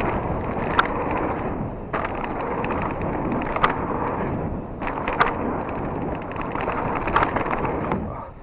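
Polygon Siskiu T7 full-suspension mountain bike descending a dirt trail: a steady rush of tyres and wind with clattering, and four sharp knocks as the bike hits bumps.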